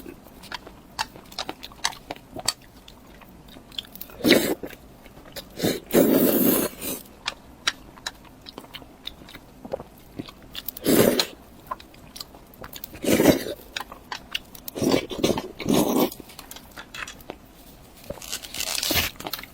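Close-miked eating: steady chewing with many small wet mouth clicks, broken by several louder bites of about half a second to a second each.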